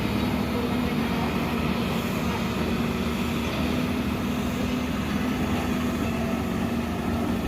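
Steady mechanical drone of engines or machinery running, with a faint low hum and no distinct events.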